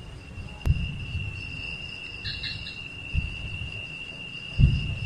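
Crickets trilling in one steady, unbroken high tone, with three low, dull thuds under it, the loudest near the end.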